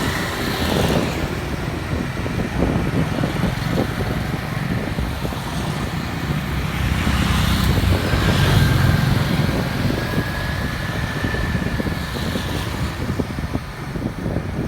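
Road noise heard from a moving motorbike in street traffic: steady engine and tyre rumble, swelling louder about eight seconds in, with a thin steady high whine for a few seconds after that.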